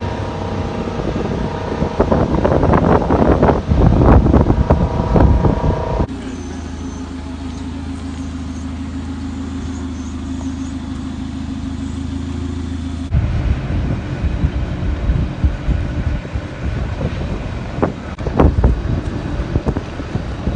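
Engines and machinery of container-handling equipment, with wind on the microphone. The sound changes suddenly twice. First comes a steady whine of several tones over rough engine noise. About six seconds in it changes to a steady low engine hum. About thirteen seconds in it changes to gusty noise with a few knocks near the end.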